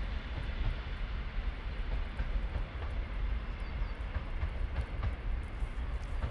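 Train running away into the distance along the track, a faint clatter of wheels over a steady low rumble.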